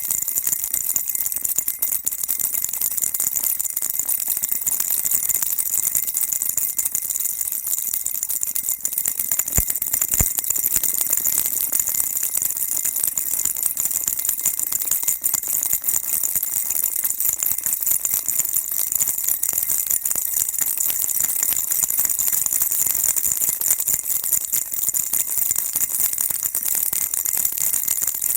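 Baby rattle shaken continuously, giving a dense, steady, high jingling rattle with no pauses.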